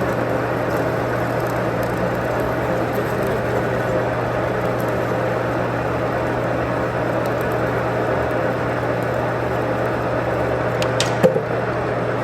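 A machine running steadily with a constant low hum, with one sharp knock about eleven seconds in.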